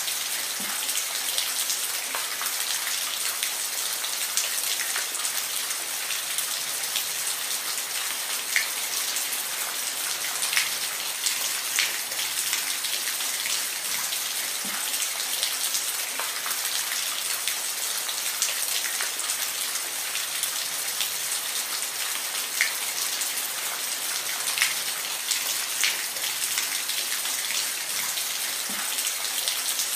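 Steady rain falling, a dense hiss with distinct raindrops ticking sharply on a surface scattered throughout.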